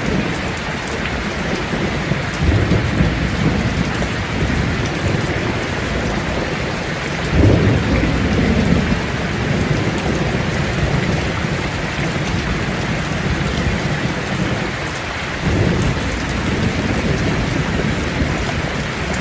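Steady rain falling, with low rolling thunder that swells up three times. The loudest thunder comes about seven to nine seconds in.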